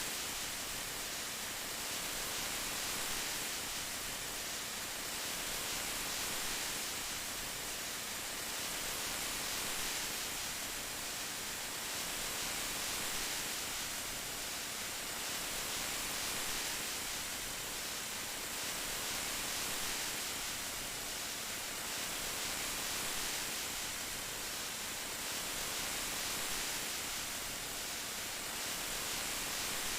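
Steady rain: an even hiss that swells slightly every three seconds or so.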